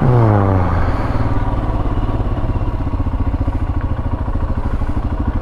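Royal Enfield Himalayan's single-cylinder engine idling steadily, with a brief fall in pitch in the first second as the revs settle.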